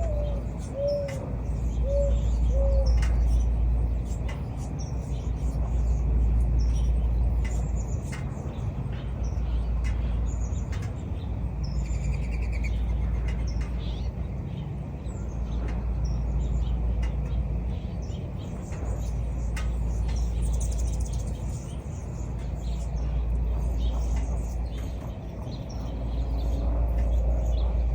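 Small birds chirping and singing, with a short run of four low calls about a second apart at the start. Under them runs a steady low rumble that swells and fades every few seconds.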